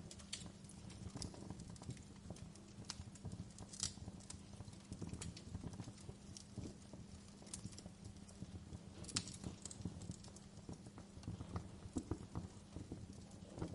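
Wood fire crackling, with irregular sharp pops and snaps over a low steady rumble and a faint hum.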